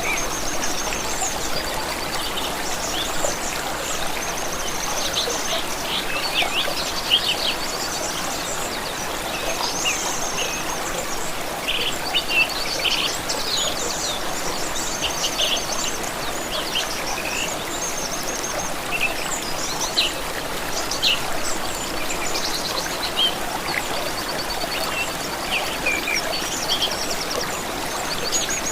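A stream running steadily, with many small birds singing over it in short chirps and quick trills.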